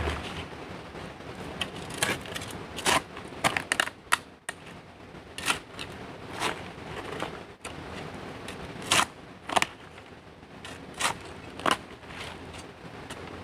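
A series of sharp, irregular clicks and knocks, roughly one every second, with a faint steady low hum underneath.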